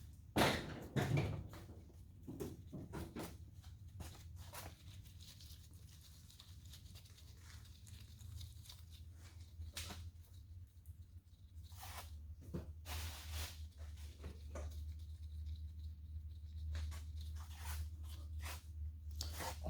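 Scattered light clicks, taps and scraping of tools and engine parts being handled, loudest in the first second or so, over a steady low hum that grows somewhat louder later on.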